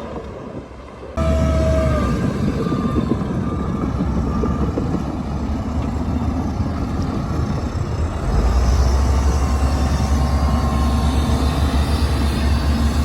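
Shantui crawler bulldozer at work: its diesel engine runs steadily under the rattle of the steel tracks. The sound jumps up about a second in with a brief high squeal, and the engine's low rumble grows louder about eight seconds in as it takes more load.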